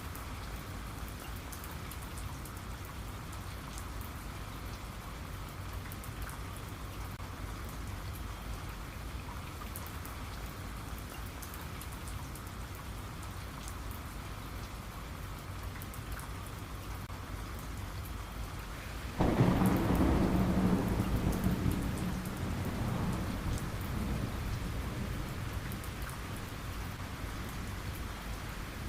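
Steady rain falling. About two-thirds of the way in, a sudden clap of thunder breaks in and rumbles, fading away over several seconds.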